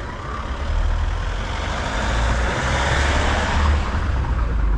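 A large motor vehicle driving past close by: a deep engine rumble and tyre noise that build up about a second in, peak past the middle and begin to fade near the end.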